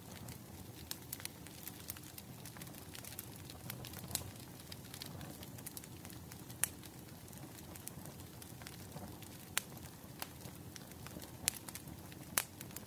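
Bonfire crackling: irregular sharp pops and snaps over a steady low rumble of burning wood, with a few louder pops in the second half.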